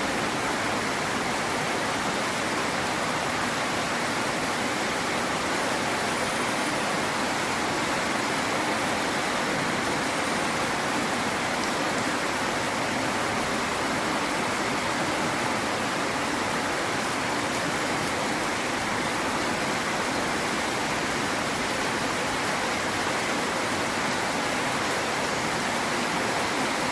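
Rain pouring down steadily, a dense, even hiss of water with no single drops standing out.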